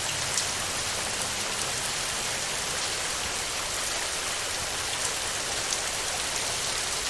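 Steady heavy rain on a tin roof, an even hiss with a few sharper drop ticks here and there.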